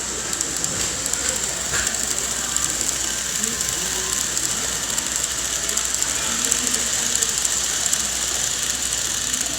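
Model train running on layout track: a steady stream of fine, rapid clicking from the wheels and motor over a constant high hiss.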